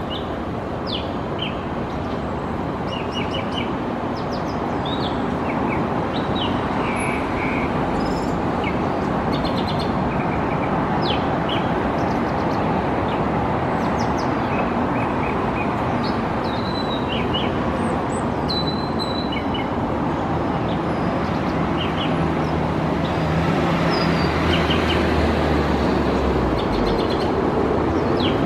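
Golden-fronted leafbird singing: a long run of short, varied chirps and whistled notes. Underneath runs a steady low background rumble, with a low engine hum growing near the end.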